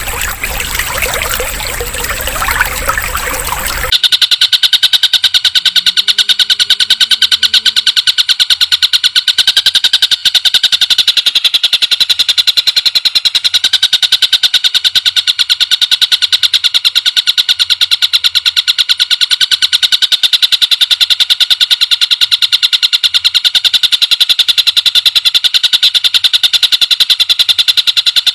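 Trickling water for a few seconds, then an abrupt cut to a loud, high-pitched, very fast steady trill of rapid even pulses, a looped masteran recording for training green leafbirds.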